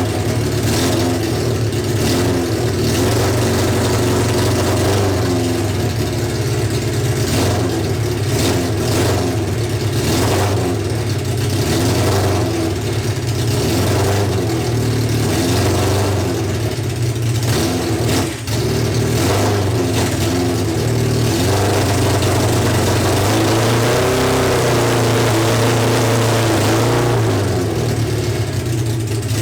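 Honda CB750 SOHC air-cooled inline-four engine running after a cold start, its speed wavering up and down a little, with a brief dip about 18 seconds in. It is firing on all four cylinders but still not running as well as the owner would like, which he thinks may be down to a small main jet in the carbs.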